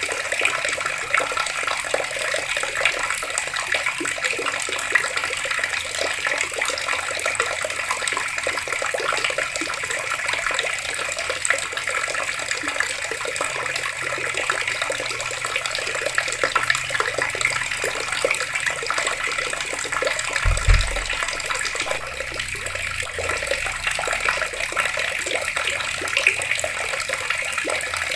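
Water taps running steadily, the water splashing and spattering as it falls. A brief low thump comes about two-thirds of the way through.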